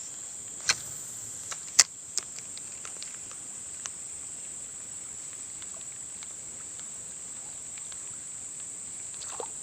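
Insects droning steadily at a high pitch, with a few sharp clicks in the first few seconds, the loudest about two seconds in.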